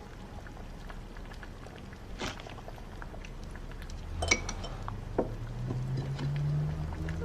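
A few light clinks of dishes and cutlery at a dinner table, over a low steady hum.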